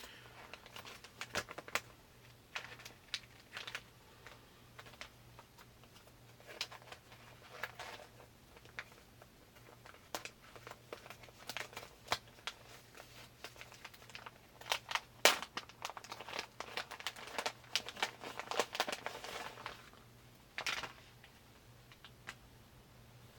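Packaging crinkling and rustling as a pair of briefs is unwrapped, with irregular crackles and one sharp crackle about two-thirds of the way through.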